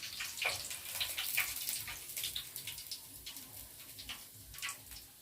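Hot cooking oil sizzling and popping around frying chicken pieces, with scattered crackles that thin out and grow quieter toward the end.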